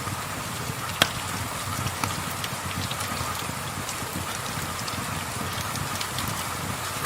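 Steady rain falling, with scattered sharp clicks and one louder crack about a second in.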